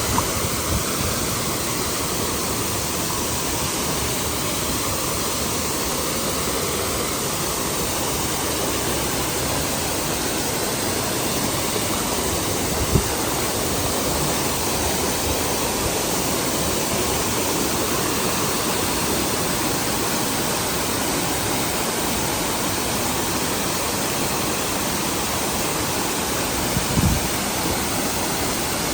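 Waterfall: a steady, loud rush of falling water. There is a sharp brief knock about halfway through and a short low thump near the end.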